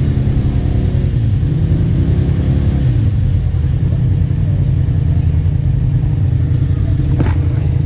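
Polaris RZR side-by-side engine running steadily under load as it climbs a steep trail, with a deep, even rumble. There is a short knock about seven seconds in.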